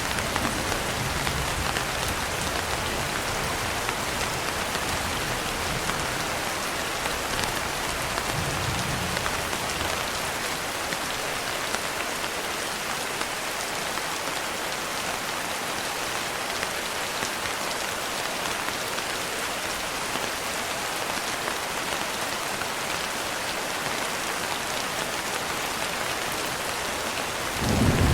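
Steady rain on a window, with low thunder rumbling faintly near the start and again about eight seconds in, and a louder roll of thunder building just before the end.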